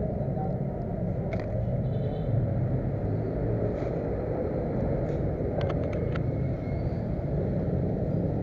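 A steady low rumble with a few short, light clicks, one about a second and a half in and a cluster near six seconds.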